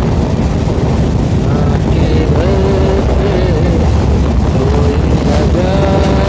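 A steady, loud low rumble like a motor vehicle or boat engine heard from on board, with voices in the background.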